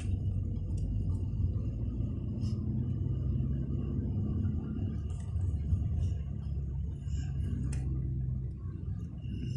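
Steady low rumble of a vehicle on the move, with a few faint ticks.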